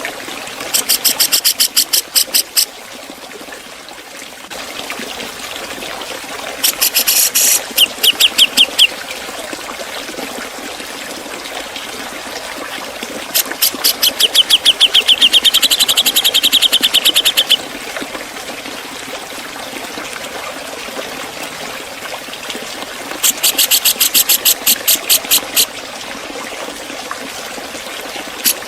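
Grey-cheeked bulbul (Javan cucak jenggot) giving four bursts of rapid, sharp repeated notes, about eight a second, each lasting two to four seconds, over a steady trickle of water.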